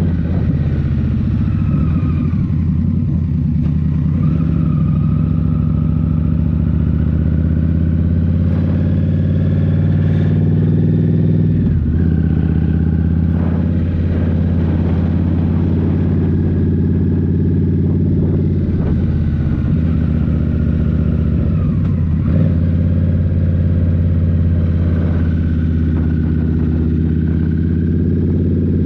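A 2023 Indian Scout Rogue's 69 cu-in liquid-cooled V-twin running under way through a Rinehart slip-on exhaust, heard from the rider's position. The engine note rises and falls with the throttle and dips briefly about twelve and twenty-two seconds in.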